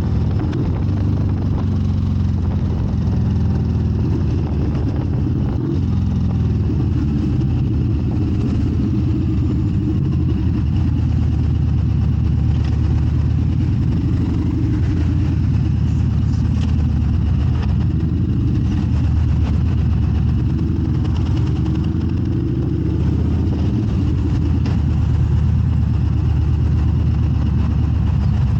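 A Vento Smart 2 50 cc scooter being ridden through traffic: steady engine and road noise, with the surrounding cars running close by.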